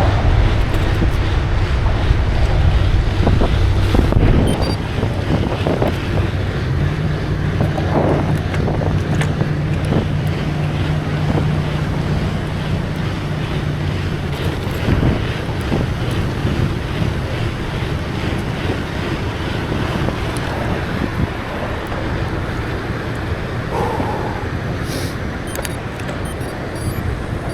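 Wind buffeting the microphone of a camera on a moving bicycle, a steady rushing noise, with a low engine hum from nearby traffic that fades out about halfway through.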